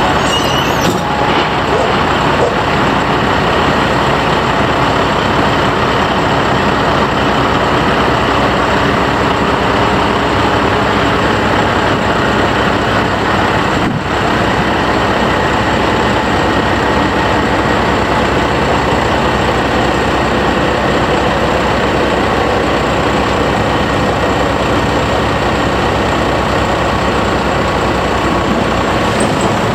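A heavy engine running steadily and loud, close by, with a brief dip about halfway through.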